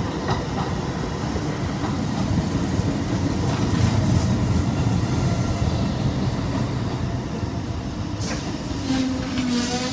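A pair of coupled Tyne and Wear Metrocars running through the station: a steady rail rumble that swells to its loudest about four seconds in, then eases, with a steady tone joining near the end.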